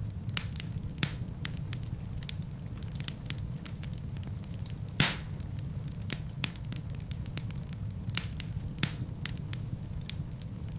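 Wood fire in a fireplace crackling, with irregular sharp pops over a steady low rumble of burning. One pop about five seconds in is much louder than the rest.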